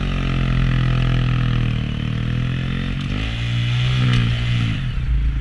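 Honda Grom's small single-cylinder engine running while riding, its pitch rising and falling a few times as the throttle is worked.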